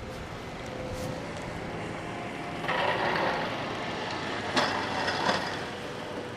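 Outdoor city ambience in a snowstorm: a steady rumble of street traffic and snow-clearing vehicles. A louder rush of noise comes in about three seconds in and lasts a second or two, followed by two sharp knocks.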